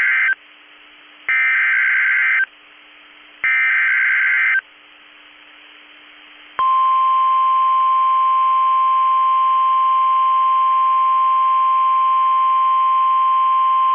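NOAA Weather Radio emergency alert signal: the end of one short warbling digital SAME header burst, then two more, about a second each with brief gaps. These are followed about 6.6 seconds in by the steady single-pitch 1050 Hz warning alarm tone, which signals that a new warning, here a severe thunderstorm warning, is about to be read.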